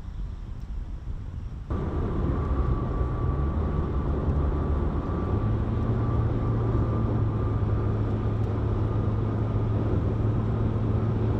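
Car on the road: steady engine and tyre noise with a low hum, which steps suddenly louder a little under two seconds in.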